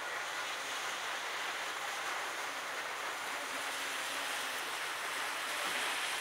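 Heavy rain falling with a steady, even hiss.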